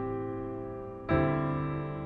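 Piano playing soft, sustained chords between sung lines of a slow ballad. One chord is held and fading, and a new chord is struck about a second in.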